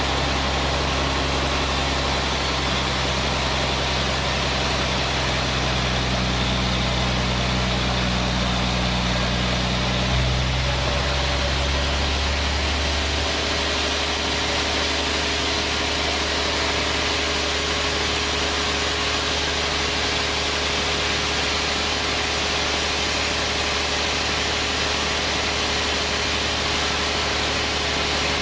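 Sawmill band saw machinery running steadily with a low machine hum and a constant noisy rush. About ten to thirteen seconds in, the deep hum drops away and a higher steady note takes over.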